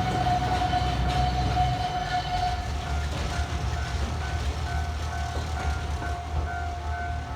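Botchan Ressha's diesel locomotive running with a steady low rumble and a steady whine. About two seconds in, a short high beep starts repeating about twice a second.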